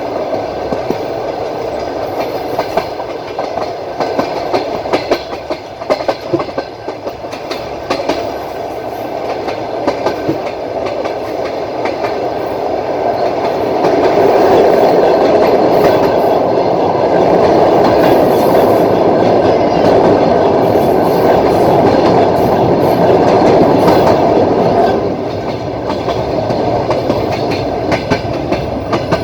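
Train wheels clacking over rail joints, heard from on board a moving passenger train, over a steady rumble. The rumble grows louder about halfway through and eases off near the end.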